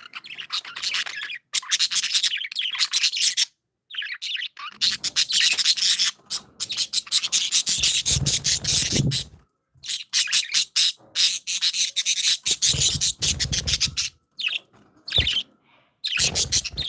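Budgerigars warbling and chattering close to the microphone in rapid, scratchy runs broken by short pauses. Twice, in the middle and later on, a lower rubbing noise sounds under the chatter.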